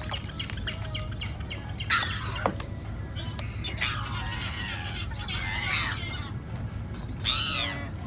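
Seagulls calling with harsh, arching squawks, in bursts about two seconds in, through the middle and again near the end, over a steady low rumble.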